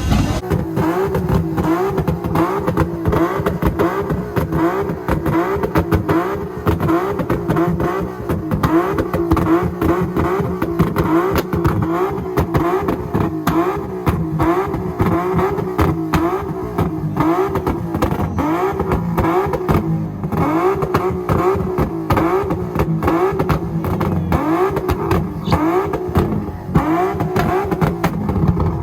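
Car engine revved over and over, its pitch climbing and falling back about once a second, loud and continuous.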